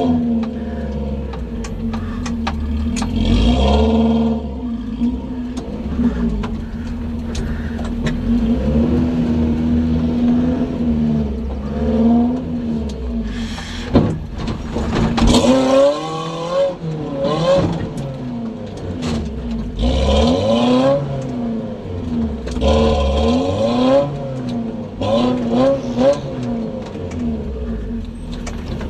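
Off-road 4x4's engine working at crawling speed, revving up and easing off again and again in bursts. A sharp knock comes about halfway through as the vehicle noses into a steep dirt bank.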